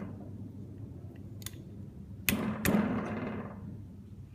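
Sharp metallic clicks and clinks of gearbox parts being handled. A faint click comes about a second and a half in, then two louder clicks close together, each with a short ring that dies away.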